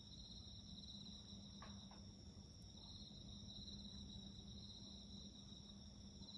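Faint, steady chirring of crickets and other night insects, pulsing slightly, over a low steady hum.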